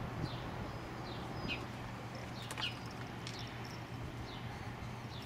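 Birds chirping: short notes sliding downward in pitch, about one or two a second, over a steady low hum.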